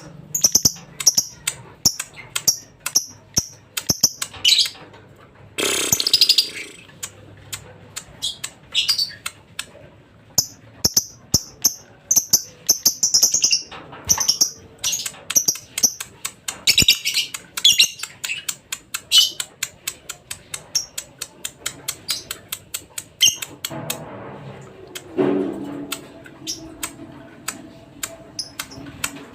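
Lovebird chirping: rapid, repeated short high chirps and squawks, the kind of call played as a lure to set a silent lovebird singing.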